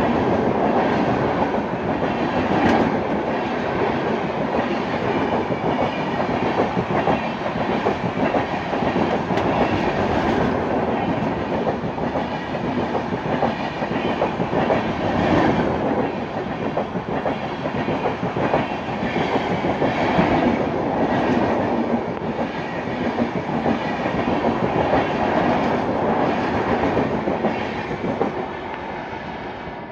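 Express train running past at speed: a steady rush of wheels on the rails with clickety-clack over the rail joints, easing off near the end.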